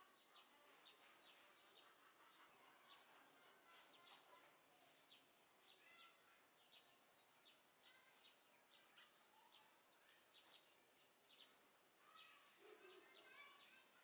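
Faint chirping of small songbirds: many short, high chirps scattered throughout, with a few lower warbling notes in between.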